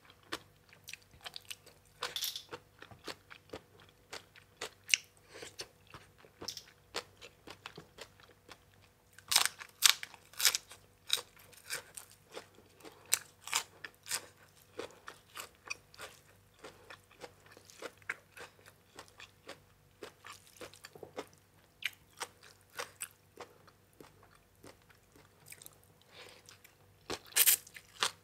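A person chewing and crunching crisp food, bite after bite, with irregular crackly crunches. The loudest runs of crunching come about nine to eleven seconds in and again near the end.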